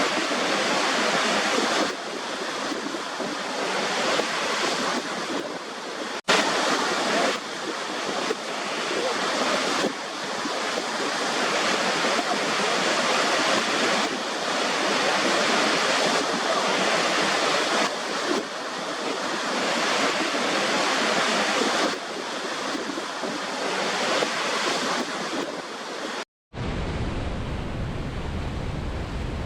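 Waterfall: a steady rush of falling water, with a momentary dropout about six seconds in. Near the end the sound cuts out briefly and comes back deeper and duller.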